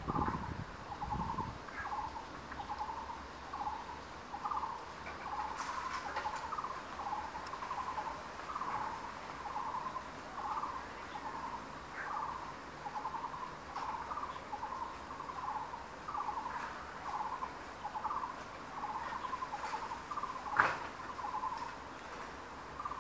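A bird calling one short hooting note over and over, evenly, a little under one and a half notes a second. A sharp click about twenty seconds in.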